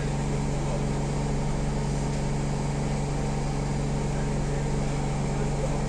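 Steady hum and air hiss inside a stationary Siemens C651 metro car standing with its doors open, a low droning tone with a few overtones underneath.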